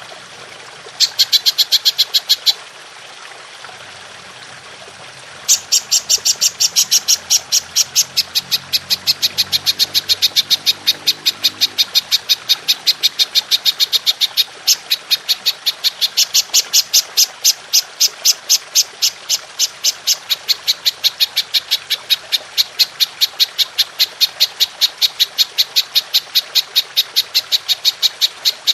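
Golden grasshopper (belalang emas) calling in a rapid, even train of high, buzzy pulses, about five a second. A short burst comes about a second in, then after a pause one long unbroken call starts about five seconds in. Faint trickling water runs steadily underneath.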